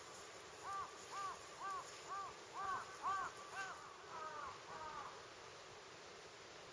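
A bird calling in a quick series of short, arched calls, about two a second, growing fainter and stopping about five seconds in.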